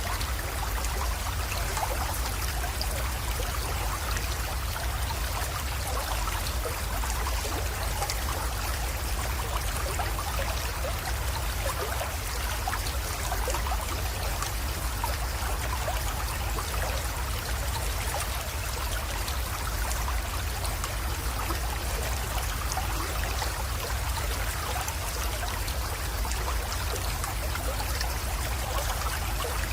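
Small creek flowing steadily, water trickling and splashing with an even rush, over a steady low rumble.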